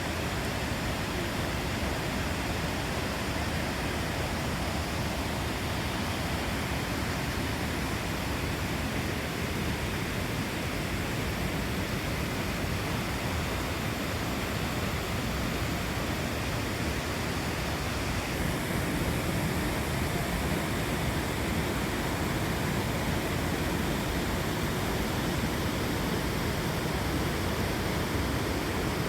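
Torc Waterfall's cascading water rushing in a steady, even hiss, slightly louder from about two-thirds of the way in.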